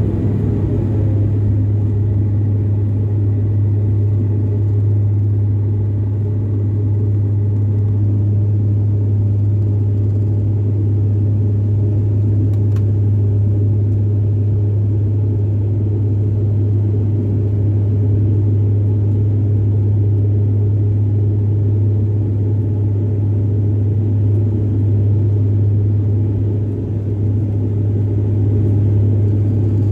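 Dash-8 turboprop's engines and propellers heard from inside the cabin during takeoff: a loud, steady, deep propeller drone with a rumble of engine and airflow noise beneath it, unchanging throughout.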